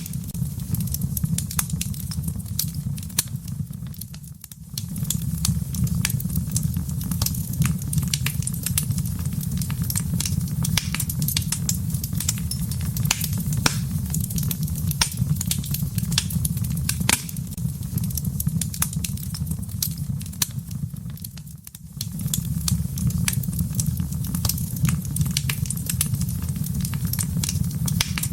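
Wood fire burning in a fireplace: a steady low rumble of flames under dense, irregular crackles and sharp pops. The sound dips briefly twice, about four seconds in and about twenty-one seconds in.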